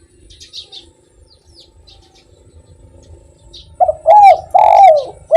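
Spotted dove cooing: a loud phrase of about four coos comes in near the end. Before it there is a quiet stretch with faint, scattered chirps of small birds.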